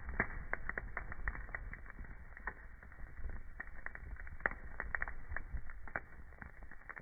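Wood fire crackling: irregular sharp pops and snaps, some close together and others a second or more apart, over a low steady rumble of burning logs.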